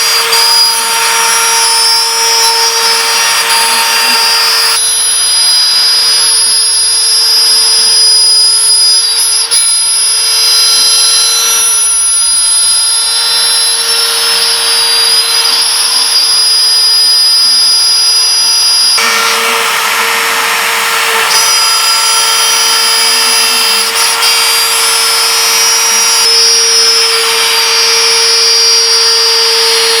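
Stepcraft CNC machine's router spindle running steadily while cutting 1/4-inch maple plywood: a constant motor whine with high-pitched overtones. The high-pitched part thins out about five seconds in and comes back around nineteen seconds.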